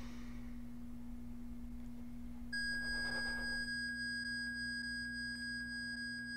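Steady high-pitched electronic tone that starts about two and a half seconds in and holds unbroken, over a low steady hum.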